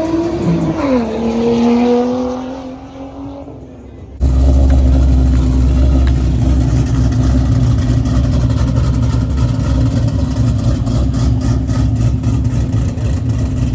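Car engines: one car's engine note drops in pitch as it goes by, then fades. From about four seconds in, a loud steady engine drone with a heavy low rumble takes over and holds.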